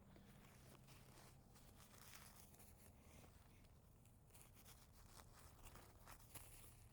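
Faint, irregular rustling and crinkling of a paper tissue being handled and folded.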